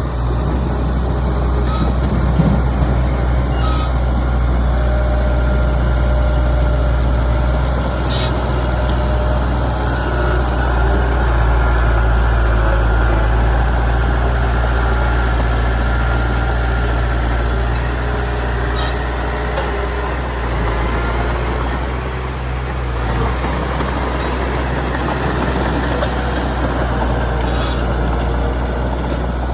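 Komatsu D31PX bulldozer's diesel engine running steadily with a deep drone, with a few brief clicks now and then.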